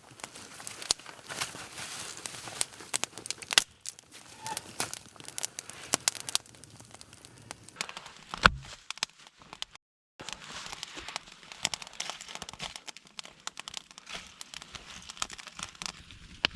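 Dry leaves and twigs rustling and crackling as they are handled, with many sharp little snaps. The sound briefly cuts out about ten seconds in.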